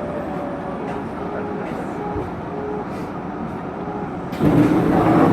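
Running noise of a Hokuso Railway 9100 series electric train heard on board: a steady rumble with faint shifting motor tones. About four seconds in it abruptly gets louder, with a wider rushing noise.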